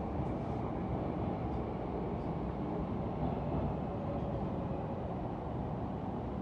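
Steady rumble heard inside the passenger car of a Dutch double-decker electric multiple unit running slowly along a station platform as it arrives.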